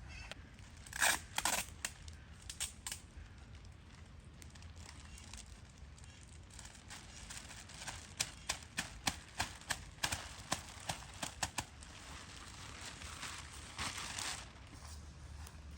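Plastic sheeting crinkling and clicking as it is handled: a few sharp crackles early, a run of quick clicks about three a second near the middle, and a brief rustle near the end, over a steady background hiss.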